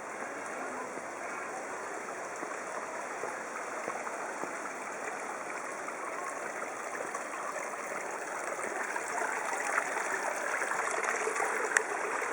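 Stream water rushing and burbling in a steady flow, growing a little louder over the last few seconds, with one sharp click near the end.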